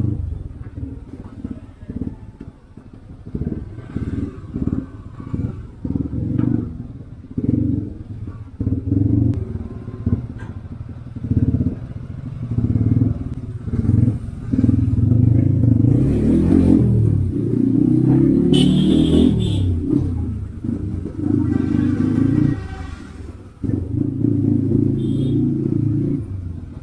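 Motorcycle engine ridden in stop-and-go traffic, the throttle blipped in short bursts at first, then held and revved with rising and falling pitch for several seconds in the second half.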